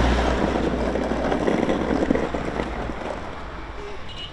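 Wind noise on the microphone over a low rumble; the rumble drops away about three seconds in and the noise eases off.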